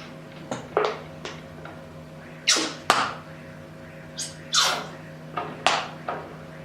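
Glue being squeezed out of a plastic bottle into a bowl: about ten short sputtering squirts as air and glue spurt from the nozzle, several falling in pitch.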